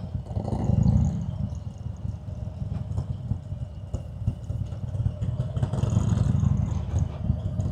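Harley-Davidson Road King's air-cooled Milwaukee-Eight V-twin running at low road speed, a low pulsing rumble that swells about a second in and again near six seconds.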